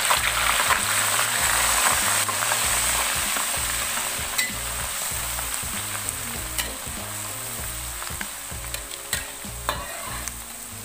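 Small dried anchovies (teri medan) sizzling as they go into hot oil in a wok, loudest in the first couple of seconds, then frying more steadily as they settle. A metal spatula stirs them, with a few sharp clicks against the pan.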